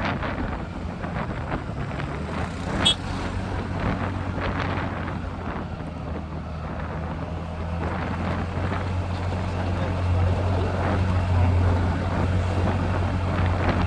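Motorcycle engine running steadily while riding, with wind noise on the microphone; the engine hum grows louder about ten seconds in. A brief sharp sound stands out about three seconds in.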